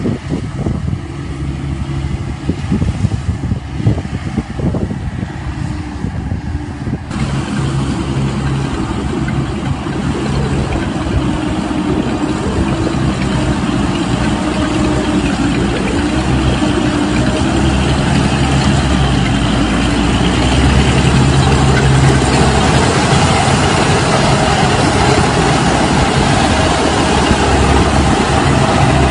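Thalaythong medium combine harvester's engine and threshing machinery running continuously. About seven seconds in the sound fills out with more hiss, and it grows louder again later.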